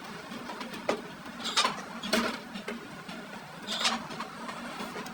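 Workshop noise: a steady background hum with four short, harsh scraping sounds spread through it.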